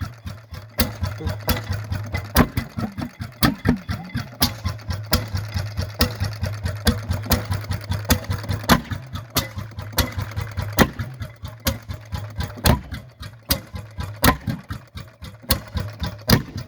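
Hot-bulb engine running with sharp, unevenly spaced knocks, a few a second, over a steady low hum. The firing is irregular enough that onlookers wonder aloud whether it is supposed to run like this.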